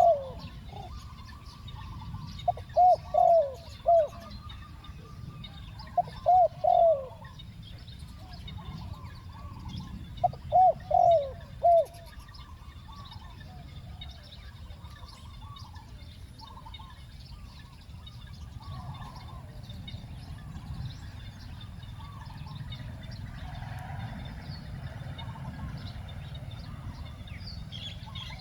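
Spotted dove cooing in short phrases of three or four notes, four phrases about three to four seconds apart in the first twelve seconds, then stopping. Fainter calls of other birds run under it, over a steady low rumble of background noise.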